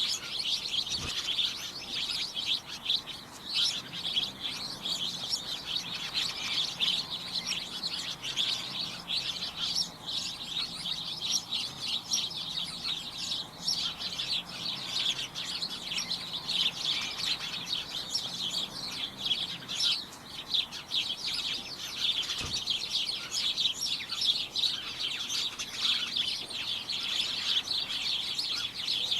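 Many small birds chirping at once, a dense cacophony of short, high, overlapping calls with no break.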